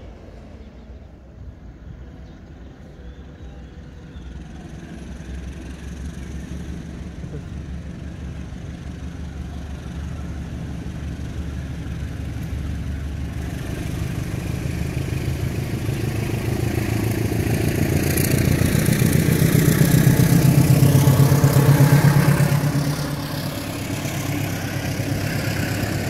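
Railway train noise building steadily as trains approach: a low engine drone with wheels on rail. The KAIS 4 inspection railcar passes loudest about two-thirds of the way in, then the sound falls away suddenly and a passing train continues.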